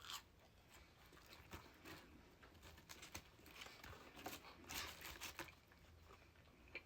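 Faint chewing with irregular wet mouth clicks and soft crunches, a little busier around four to five seconds in.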